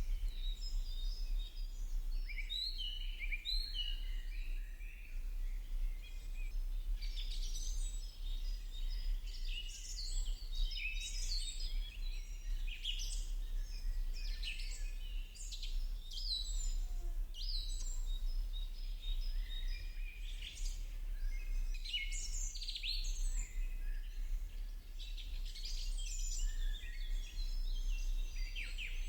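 Dense chorus of songbirds chirping and singing throughout, many short high calls overlapping, over a steady low hum.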